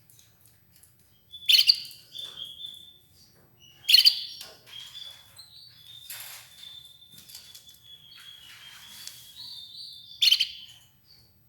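Red ivory canary chirping: three loud, sharp calls, with a thin, high, drawn-out note held for several seconds between the second and third.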